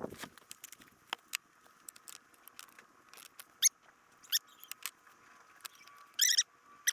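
Scattered light clicks and taps from parts being handled, with short high-pitched squeaks: a few single ones, then a louder cluster about six seconds in and another at the end.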